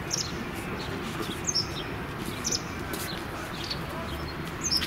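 Small songbirds chirping, with short high chirps coming irregularly about once a second over a steady outdoor background hum.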